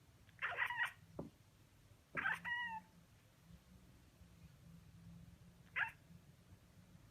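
Domestic cat making three short, odd meow-like calls: two within the first three seconds, the second ending in a clear pitched tail, and a brief one near the end.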